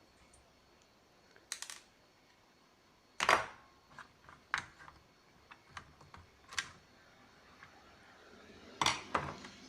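Scattered sharp clicks and knocks of small hard objects being handled on a workbench, irregular, with the loudest knock about three seconds in and a short cluster near the end.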